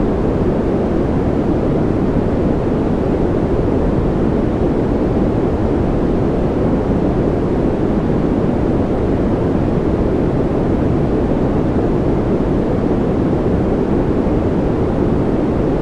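Steady white-noise track for sleep: an unbroken, even hush weighted toward the low end, deep and muffled with little high hiss, and no rhythm or changes.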